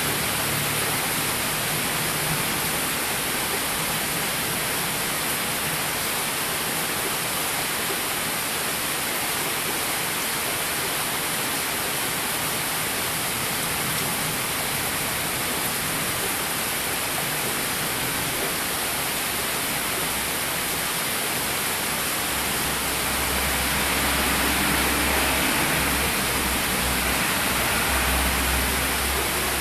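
Heavy rain pouring steadily onto the yard and road, a dense even hiss. About three-quarters of the way through, a car passes on the road behind the fence, adding a low rumble under the rain.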